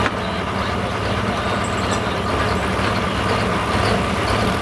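Diesel 4x4 pickup truck engine running steadily at low revs, with no revving.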